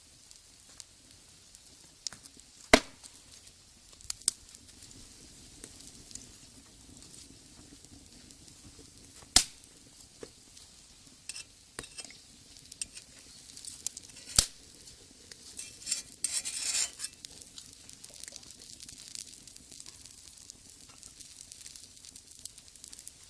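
Omelet batter sizzling in a cast-iron skillet over a wood fire, broken by a few sharp clicks and knocks and a short scraping stretch about two-thirds of the way through.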